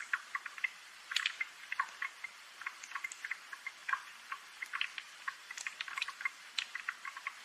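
Rain dripping: an irregular patter of single water drops, several a second, over a soft hiss.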